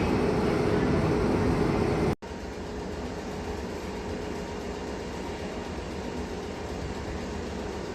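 Train running past at a station, loud with a steady hum. About two seconds in it cuts off abruptly at an edit, and a quieter, steady train rumble follows.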